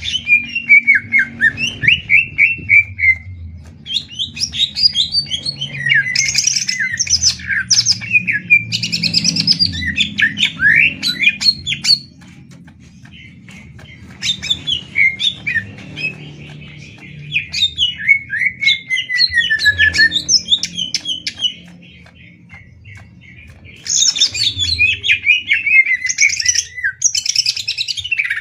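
Green leafbirds (cucak ijo) singing against each other in a duel: loud, fast chattering songs full of rapid sweeping whistles, in bursts broken by short lulls about 3, 12 and 22 seconds in.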